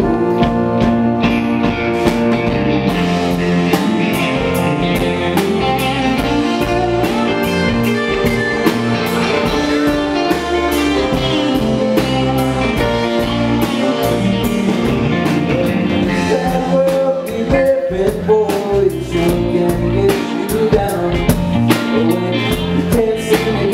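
Live rock band playing an instrumental break, with guitar and a drum kit keeping a steady beat.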